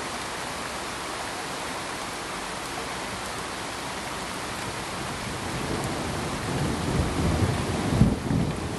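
Steady pink-noise hiss. Over it, from about halfway through, a low rumble swells in uneven surges and is loudest near the end.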